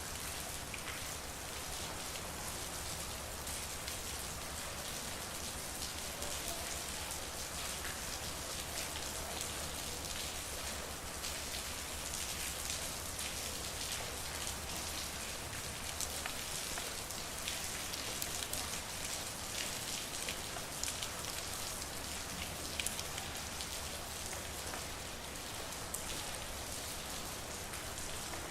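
Steady rain falling on a street, an even hiss full of fine drop patter.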